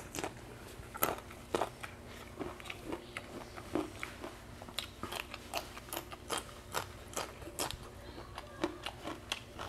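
A person chewing and biting into crunchy raw green vegetables, a run of irregular crisp crunches and mouth clicks, about two or three a second.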